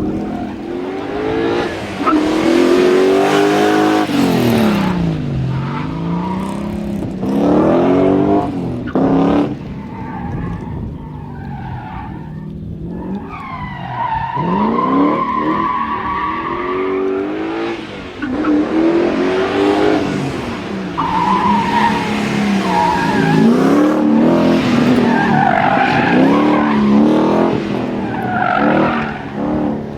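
Drift cars at full throttle, engines revving up and falling back over and over, with tyres screeching as they slide.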